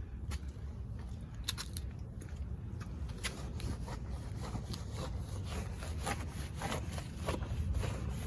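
A stiff brush scrubbing a car's soapy body, in repeated short rubbing strokes, about two a second from about three seconds in.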